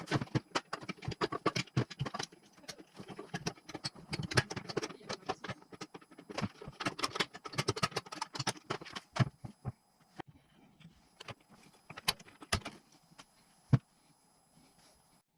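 Metal engine parts and hand tools clinking and rattling as they are handled during engine assembly: dense clatter for about ten seconds, then scattered clicks and one sharp knock near the end.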